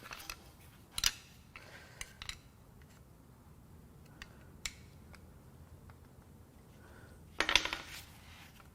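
Scattered light metallic clicks and clinks of hand tools and engine parts being handled, with a short rapid clatter of clicks near the end.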